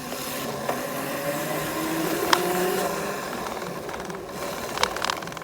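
Small off-road vehicle engine running, its pitch slowly rising and falling as the throttle changes. Two sharp clicks land about two seconds in and near the end.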